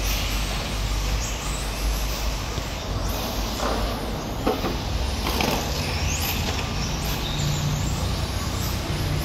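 Electric RC cars with 10.5-turn brushless motors running on a track, their motors whining up and down in pitch as they accelerate and slow. A few sharp knocks come near the middle.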